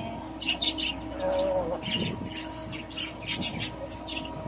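Small birds chirping in short, scattered calls, over a faint steady hum.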